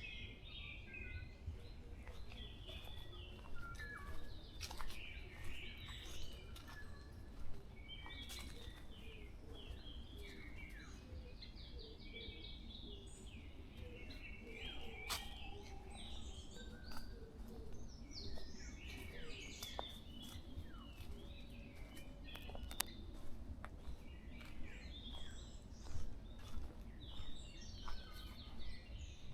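Several small forest birds chirping and calling in short, scattered notes, faint, over a steady low background rumble.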